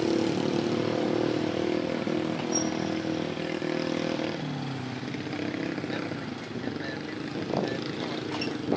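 A motor vehicle engine running close by with a steady pitched hum. About four seconds in its pitch drops and it fades, with faint voices in the background.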